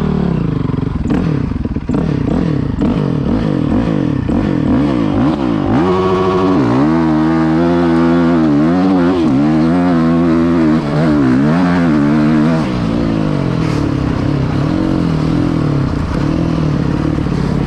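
Dirt bike engine being ridden, its revs rising and falling over and over. About six seconds in the revs climb sharply and swing up and down hard for several seconds before easing back to a steadier, lower note.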